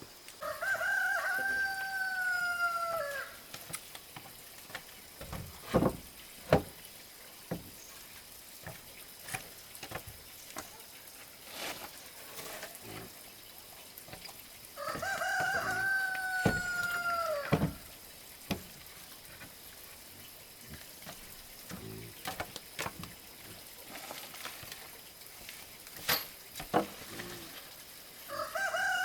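A rooster crowing twice, each crow about three seconds long on a held note that drops at the end, with a third crow starting near the end. Scattered sharp knocks and taps fall between the crows.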